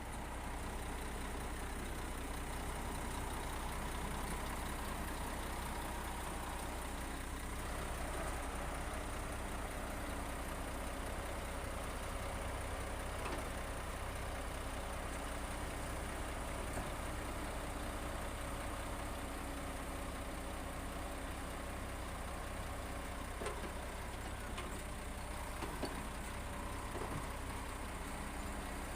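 A heavy construction machine's diesel engine runs steadily, with a few faint knocks in the second half.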